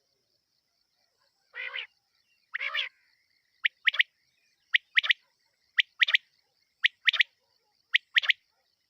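Quail (batair) night call: two longer, rough calls, then a sharp two-note call repeated about once a second, five times.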